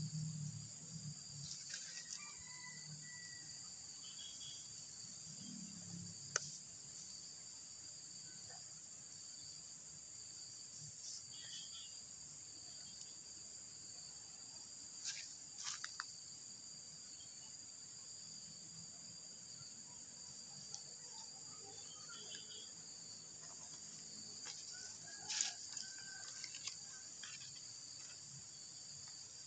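Insects chirring in a steady, high-pitched chorus at two pitches, with a few short clicks and faint chirps now and then.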